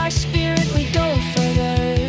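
Rock music: distorted guitar playing held notes with pitch bends over fast, driving drums.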